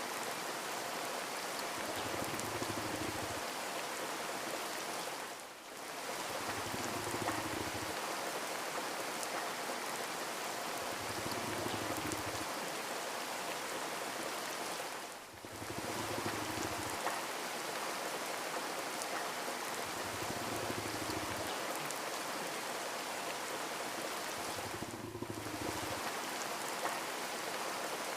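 Steady rain falling, an even hiss of drops that briefly dips in level about every ten seconds.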